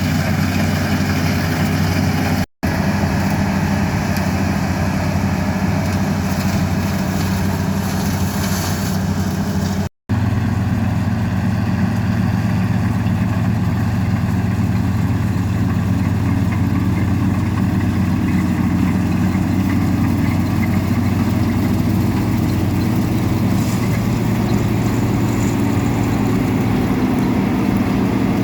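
Harvest machinery engine running steadily, a low even hum with a constant pitch; the sound cuts out abruptly twice, briefly.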